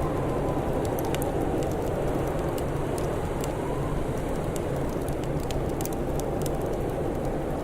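Wood fire crackling, with scattered sharp pops and ticks over a steady low rushing background.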